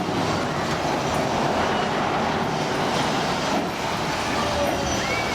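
Amusement-park tugboat ride in motion: a steady mechanical rumble and hiss, with faint high gliding squeals near the end.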